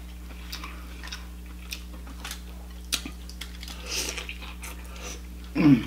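A person chewing and biting soft, butter-dipped lobster meat close to the microphone, with small wet clicks and smacks. Near the end comes a short pitched vocal sound, louder than the chewing.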